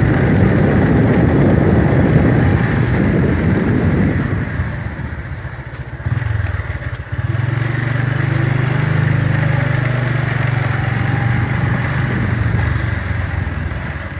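Motorcycle engine running while riding, with a loud rush of wind and road noise. About six seconds in the rush dies down and the engine settles into a steady low hum.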